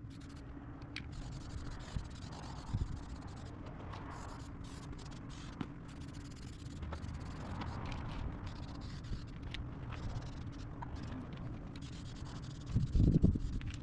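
A steady low hum under faint scraping and rubbing noises, then a short run of loud knocks near the end.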